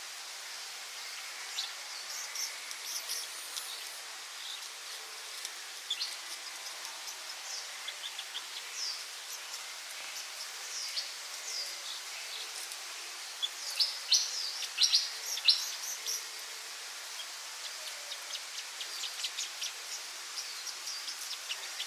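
Small songbirds chirping and singing in quick, high, short notes over a steady background hiss, with a louder run of chirps about two thirds of the way through.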